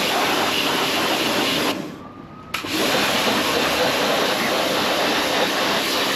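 High-pressure water spray hissing as it blasts mud off a motorcycle. The spray stops about two seconds in and starts again a moment later.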